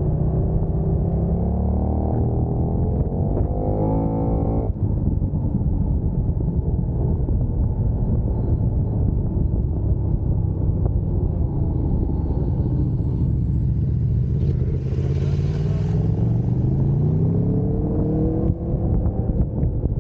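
Sport motorcycle engine accelerating hard, its pitch climbing and then dropping abruptly about five seconds in, then climbing again near the end. A short rush of wind noise comes about three-quarters of the way through.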